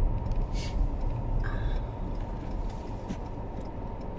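Car cabin road noise: the steady low rumble of tyres and engine while driving on a snowy road, with a brief click about half a second in. The rumble eases off slightly toward the end.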